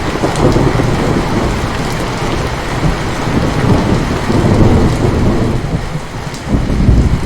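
Steady heavy rain with a rolling rumble of thunder underneath, the rumble swelling again near the end.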